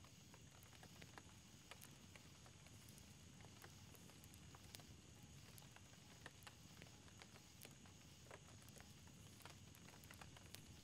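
Faint, irregular crackling and popping of a small wood campfire, over a low steady background hiss.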